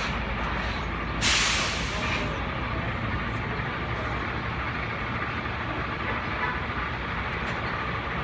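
Semi-truck engine running at low speed, with a loud burst of air-brake hiss about a second in that lasts about a second.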